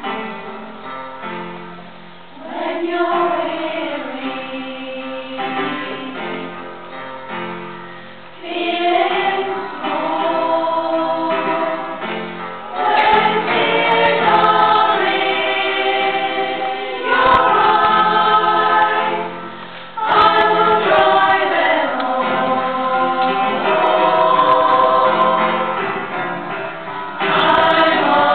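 A choir singing together in long phrases of held notes, with short breaks between phrases.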